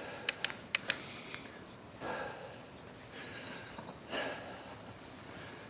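A cyclist breathing hard: two loud exhalations about two seconds apart. A few sharp clicks from the bicycle come in the first second, and a short run of freewheel ticking falls between the breaths.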